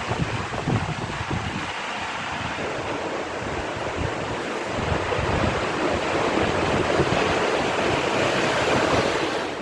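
Rough sea in strong wind: waves surging with a steady rush, and gusts buffeting the microphone with low rumbles. The rush grows louder about halfway through.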